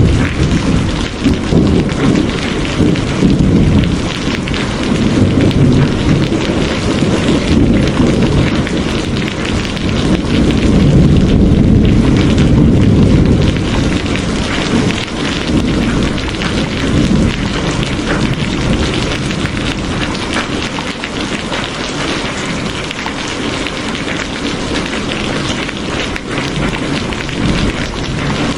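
Heavy rain falling steadily, with low rolling thunder that swells and fades underneath it. It is louder through the first half and eases a little after that.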